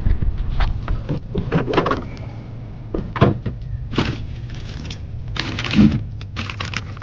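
A run of irregular knocks, thuds and short clatters of things being handled, as if cupboard doors or hatches are being opened and closed; the sharpest knocks come about three seconds in and just before six seconds.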